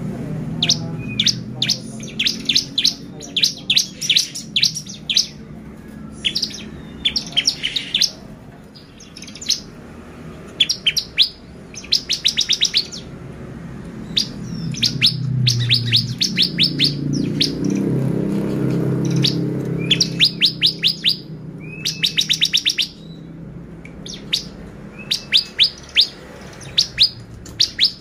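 Bar-winged prinia (ciblek) singing: short, fast runs of sharp, high chipping notes, repeated again and again with brief pauses between runs.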